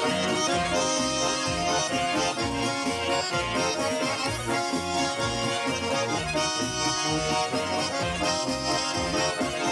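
Garmon (Russian button accordion) playing the instrumental introduction to a Russian folk-style song, with sustained melody notes over a rhythmic pulsing bass.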